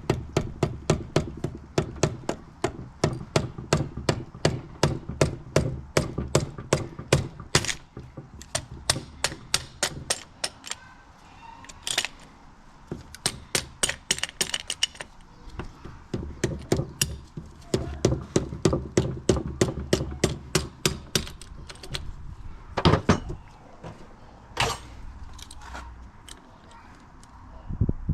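Hand-tool work on the CBR600RR's engine as the cylinder head is freed: runs of quick metallic clicks and light knocks, about five a second, in bursts with short pauses, then a few single sharper knocks near the end.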